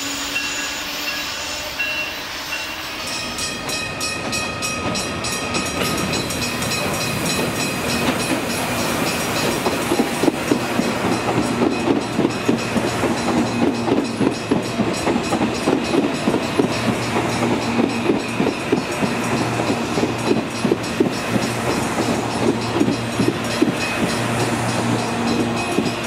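Electric commuter train running past, its wheels clicking rhythmically over the rail joints, loudest from about ten seconds in, over a steady hum.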